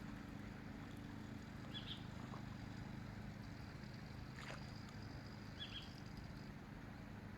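A faint, steady low mechanical hum, with a small bird chirping briefly twice and a single sharp click near the middle.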